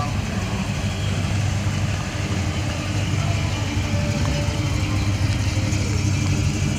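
Chevrolet 396 big-block V8 of a 1970 Chevelle SS idling steadily, its exhaust note low and even.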